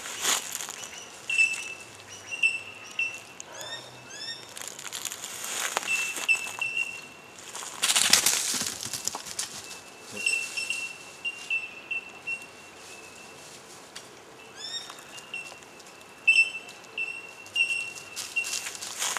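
Birds calling in bushland: many short, high chirps repeated throughout, with a few swooping whistled notes. Several loud bursts of rustling noise break in, the loudest about eight seconds in.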